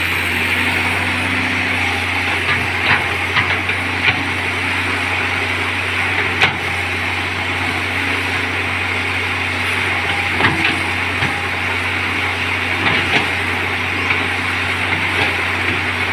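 Caterpillar excavator's diesel engine running steadily, with a scattering of sharp knocks and clanks.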